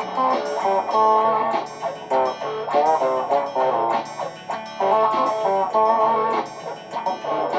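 Electric guitar music built from layered live loops: quick picked melodic notes over a repeating low line beneath.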